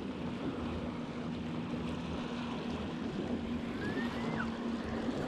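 Wind and water noise around a fishing boat, with a steady low motor hum that drops slightly in pitch partway through.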